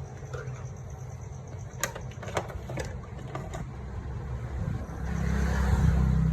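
Small motorcycle engine running steadily, getting louder from about five seconds in, with a few sharp clicks or knocks between about two and three and a half seconds.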